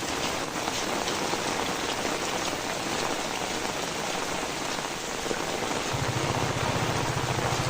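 Heavy rain falling steadily, an even hiss of raindrops on surfaces. About six seconds in, a steady low hum joins underneath.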